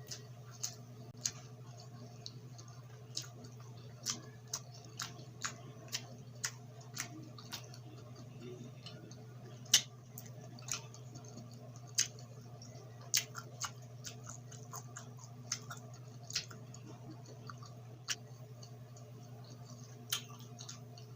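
Close-up eating sounds: irregular sharp clicks of chewing and mouth smacks, about one or two a second, with one louder click near the middle, over a steady low hum.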